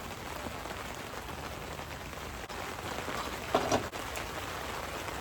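Steady rain pattering on surrounding surfaces, with two quick clatters close together about three and a half seconds in.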